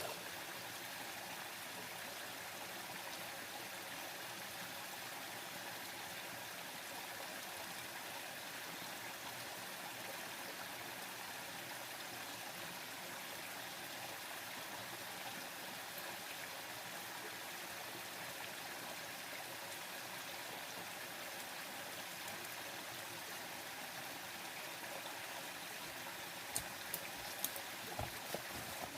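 Steady rushing of a flowing stream, with a few sharp clicks near the end.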